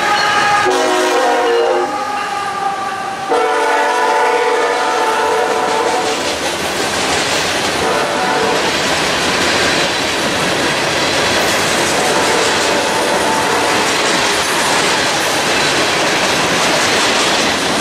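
CSX freight train passing close: a mid-train locomotive goes by, then covered hoppers, tank cars and coil cars rumble and clack steadily over the rails. A train horn sounds in several blasts during the first six seconds or so, then fades out.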